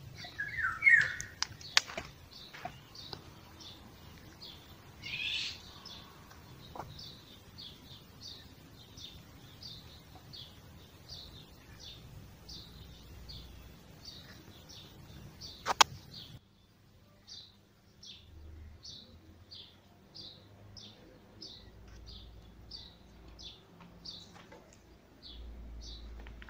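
A small bird repeating a short high chirp, about one and a half a second, steadily throughout. There are a few louder calls and clicks in the first few seconds, and one sharp click about sixteen seconds in.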